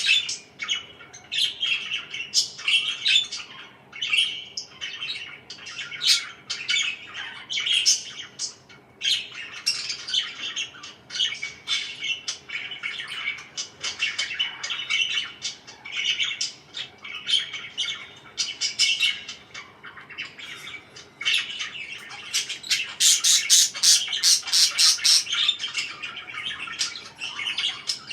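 Pet parakeets chirping and squawking in a continuous, busy chatter. About two-thirds through, a run of quick, sharp chirps at several a second stands out as the loudest part.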